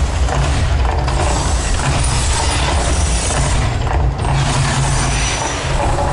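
The Mirage volcano show's eruption effects: a deep, continuous rumble with dense crackling and rattling over it.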